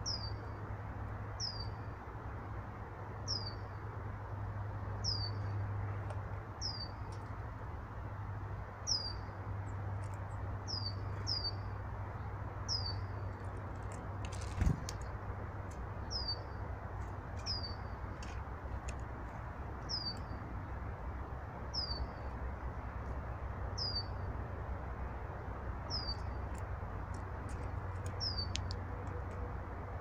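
A small songbird calling: one short, high note falling in pitch, repeated about every one and a half seconds, over a steady low rumble. A single sharp thump comes about halfway, and there are faint clicks in the second half.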